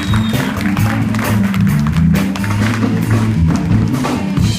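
Live band playing an instrumental vamp, with a steady bass line and busy drum kit hits.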